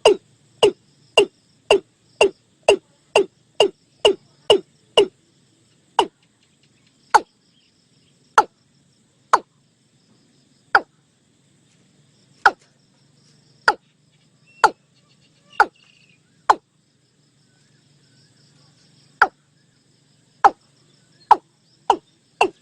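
Watercock calling: a series of short, sharp notes, each dropping quickly in pitch. They come about twice a second for the first five seconds, then slow to one every second or so.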